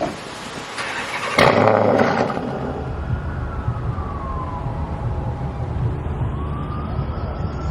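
Dodge Challenger's Hemi V8 starting up about a second and a half in, then idling with a low rumble while a whine falls and then rises in pitch. The owner says the engine is not sounding good and suspects worn lifters or a damaged camshaft, or both.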